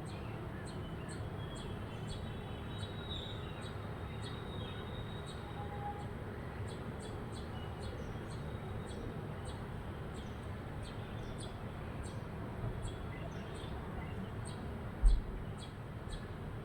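Faint, scattered bird chirps over a steady low background rumble, with one short low thump near the end.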